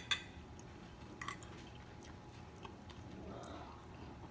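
A person quietly chewing a mouthful of stir-fried noodles and dumplings, with a few short sharp clicks, the loudest right at the start and another about a second later.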